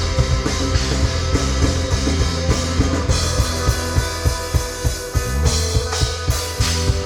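A rock band plays live: drum kit, bass and guitars keep a steady beat, with a busy run of drum hits in the second half.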